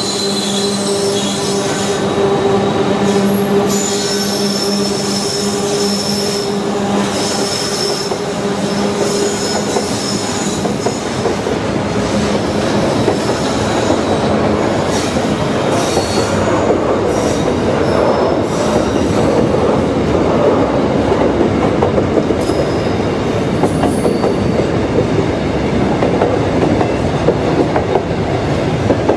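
Container freight train passing at speed: the steady drone of its trailing diesel locomotives fades out over the first ten seconds or so, leaving the rumble and clatter of container wagons rolling by. High, thin wheel squeals come and go through the first two-thirds.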